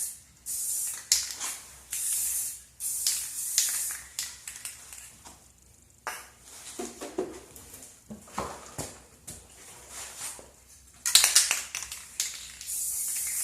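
Aerosol chain wax being sprayed onto a motorcycle chain in a string of short hissing bursts. The bursts come through the first four seconds, pause for several seconds with a few faint knocks, and start again, louder, about eleven seconds in.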